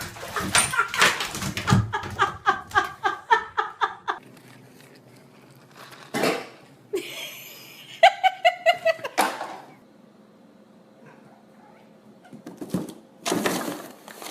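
A person laughing in quick, repeated 'ha-ha' pulses for several seconds, then laughing again in a shorter run about eight seconds in. Brief noisy bursts come in between and near the end.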